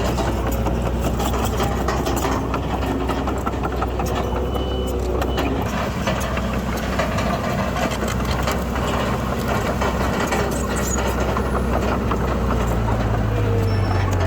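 Heavy diesel earthmoving machinery running steadily with rattling and clanking, its engine note rising and growing louder near the end.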